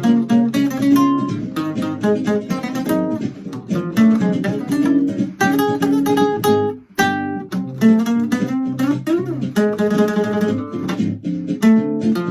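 Layered guitar music: acoustic-sounding guitar plucking and strumming a tune over looped guitar parts, with a brief break just before the middle.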